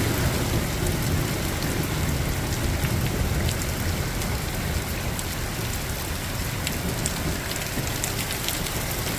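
Heavy rain pouring down in a thunderstorm: a steady hiss with scattered sharp ticks of drops and a low rumble underneath.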